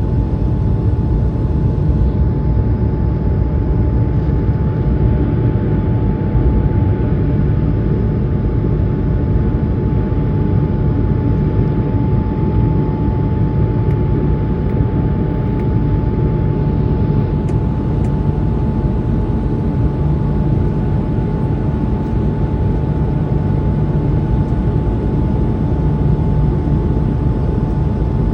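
JetBlue Airbus A220 jet's Pratt & Whitney geared turbofans at takeoff power: a steady loud rumble with a constant high whine.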